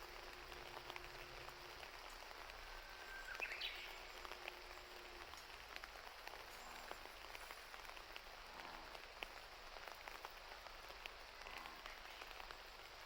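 Steady rain falling, with scattered drops ticking. One short, high chirp rises about three and a half seconds in.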